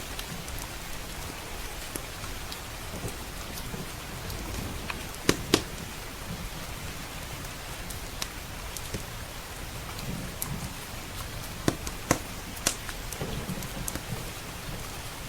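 Steady heavy rain with a crackling wood fire in a stone fireplace. The fire gives two loud pops about five seconds in and a few more sharp pops around twelve seconds.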